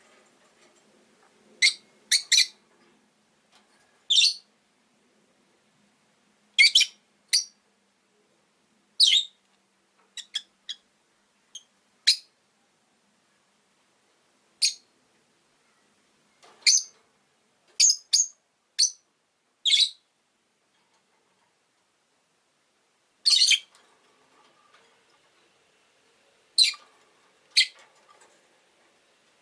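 Rosy-faced lovebirds chirping: short, shrill calls, some single and some in quick pairs, at irregular intervals, with a quiet gap of a few seconds about two-thirds of the way through.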